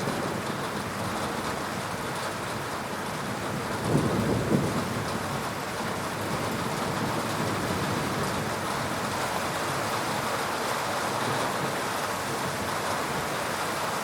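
Heavy rain falling steadily in a thunderstorm, with a brief low rumble of thunder about four seconds in.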